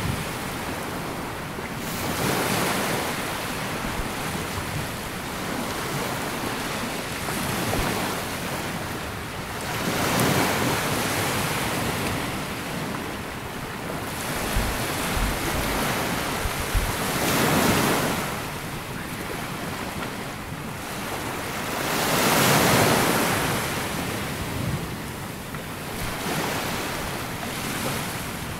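Sea waves washing onto a sandy beach, the surf swelling and falling away every several seconds.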